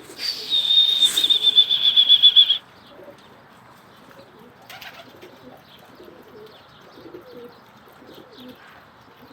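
A loud, high trill on one pitch, a fast run of pulses lasting about two and a half seconds, then soft low cooing of domestic pigeons.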